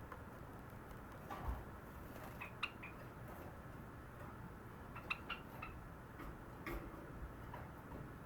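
Java sparrow giving short, clicking chirps in a few brief clusters, the bell-like pips and clicks of its song.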